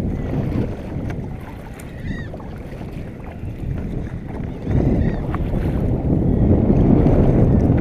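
Wind buffeting the microphone on a sea kayak, with water against the hull. The rumble eases for a few seconds, then swells again about five seconds in. A few faint short squeaks sound through it.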